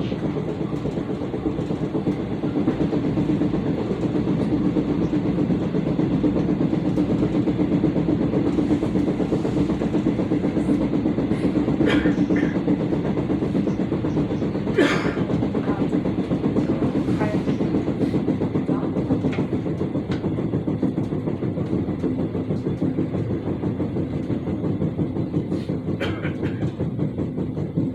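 Electric commuter train running at speed, heard from inside the passenger car: a steady rumble of wheels on rail with a constant thumping. The uploader puts the thumping down to wheels that have not been reprofiled. A couple of sharp clicks come through about twelve and fifteen seconds in.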